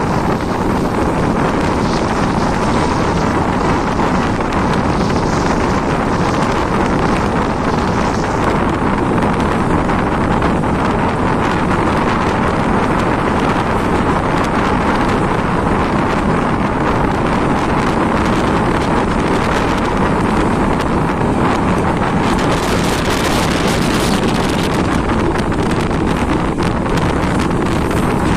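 A moving passenger train: a steady, loud rushing rumble with wind buffeting the microphone and no change in the sound.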